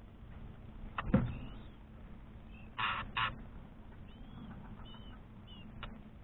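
Small birds in an aviary: a sharp knock about a second in, two short harsh calls near the middle, then faint short high chirps and a small click near the end.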